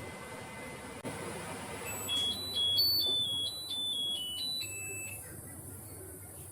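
A click, then a short electronic chime tune from a microwave oven: about a dozen quick high beeps stepping up and down in pitch, ending on one longer, lower note.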